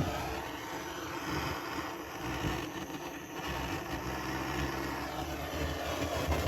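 Handheld gas blowtorch burning with a steady roar, heating a chainsaw crankcase half so the old crankcase bearing can be drawn out.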